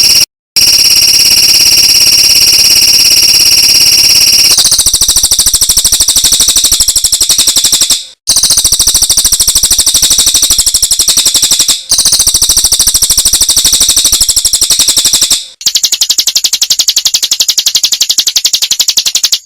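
A 'tembakan AK-47' bird-song training track: a very rapid, high-pitched machine-gun-like trill of evenly repeated notes, played in loud stretches of a few seconds with short breaks between them. The trill changes its pattern slightly a little after four seconds and again near the end.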